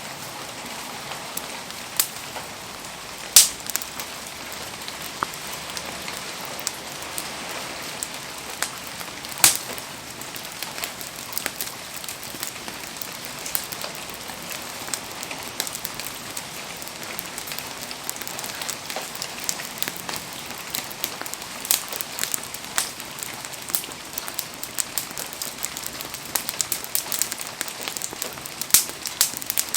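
Wood fire crackling and popping over a steady hiss of rain. Two sharp pops stand out, about three and a half and nine and a half seconds in, and the crackling grows thicker and more frequent in the second half.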